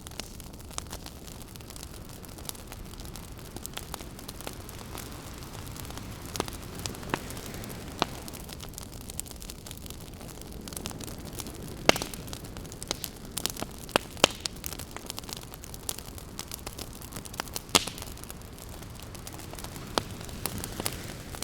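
Wood campfire crackling, with sharp pops scattered through and the loudest about twelve, fourteen and eighteen seconds in, over the steady rush of ocean waves that swells and eases.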